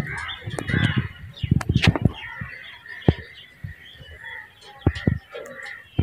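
Assorted bird calls, short pitched calls repeating throughout, with low bursts in the first two seconds and a few sharp clicks around the middle and near the end.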